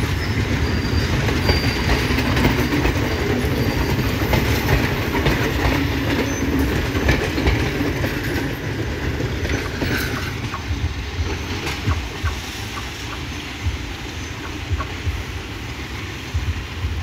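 Red passenger carriages of a Sri Lanka Railways train rolling past on the track. The noise fades from about halfway through as the end of the train moves away.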